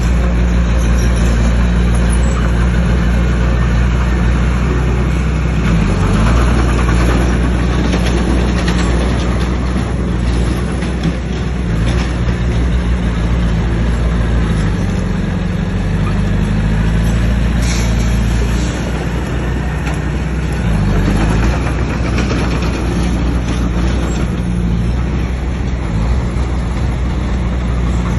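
Bulldozer's diesel engine running hard under load, its pitch dipping briefly a few times, with a steady rough clatter and scraping over it as it pushes stone fill.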